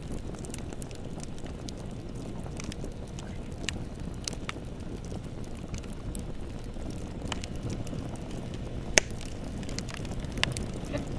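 Bonfire burning: a steady low rumble with scattered crackles and pops, the sharpest pop about nine seconds in.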